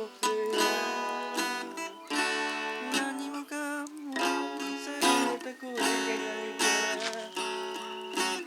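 Acoustic guitar strummed in chords, with strong strokes a little under a second apart.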